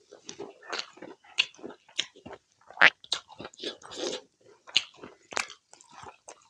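A person chewing and biting a mouthful of pork curry and rice close to the microphone: a quick, irregular run of short mouth clicks and wet chewing noises, the loudest a little before halfway.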